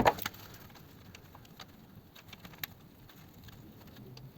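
A rapid, even run of ratchet clicks cuts off right at the start, followed by quiet with a few faint scattered ticks and light knocks from hand tools on the car's underside.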